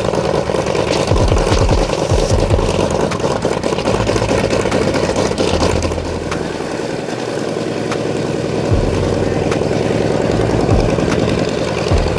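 Vought F4U Corsair's Pratt & Whitney R-2800 eighteen-cylinder radial engine running at idle after start-up, with a rapid, uneven pulsing. It eases off a little about six seconds in and picks back up near nine seconds.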